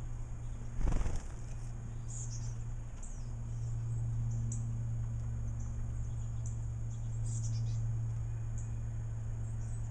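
Small birds giving short, high chirps over a steady low hum, with one brief loud noise about a second in.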